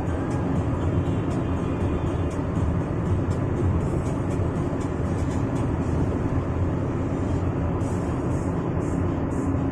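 Steady engine and road noise of a moving bus, with music playing over it.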